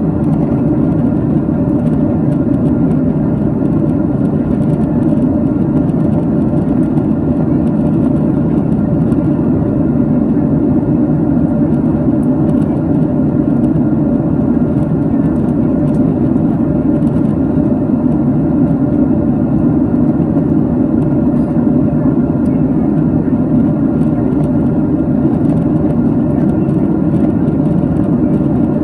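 Boeing 767 cabin noise heard from a window seat: the engines and rushing air make a steady, even drone at high power.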